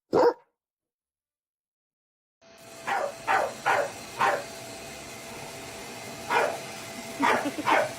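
A dog barking in short single barks: four in quick succession about three seconds in, then three more near the end, over a faint steady hum.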